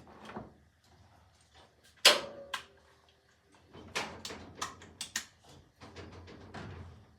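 A sharp knock about two seconds in, followed by a run of smaller knocks and clicks as equipment and cable are handled in a small room.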